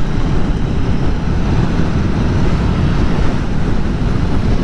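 Aprilia Tuono V4 Factory motorcycle under way, its V4 engine running at a steady cruise under heavy wind and road noise, with no revving up or down.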